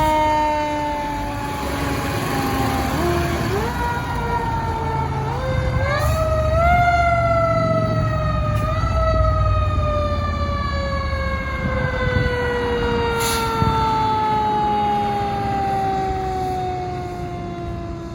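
Fire engine siren sounding as the truck responds: the pitch climbs in a few steps, then falls in one long, slow glide, with the truck's engine rumbling underneath.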